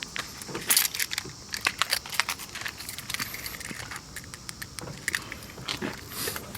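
Car keys jangling, with a scatter of light clicks and taps, just before the Honda Accord is started.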